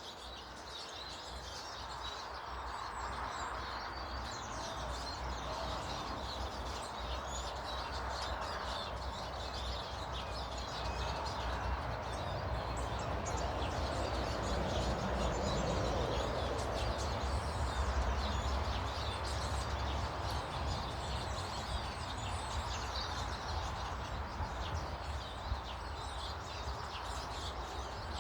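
Small garden birds chirping and twittering, with many quick calls overlapping, over a steady background rumble that grows louder in the middle.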